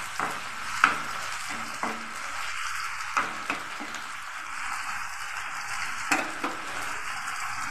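Oyster mushroom pieces sizzling in hot oil in a non-stick frying pan, with a metal spoon clicking and scraping against the pan as they are stirred, a handful of times in the first half and twice about six seconds in. The mushrooms are starting to give off their water as they fry.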